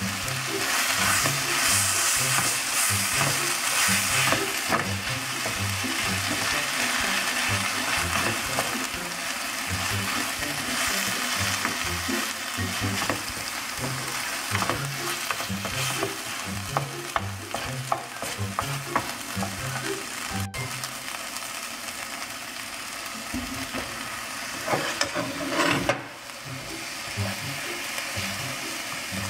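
Kimchi stir-frying in an oiled nonstick wok: a steady sizzle with the scrapes and taps of a wooden spoon tossing the cabbage. Near the end the kimchi is pushed aside and the bare oil bubbles and sizzles.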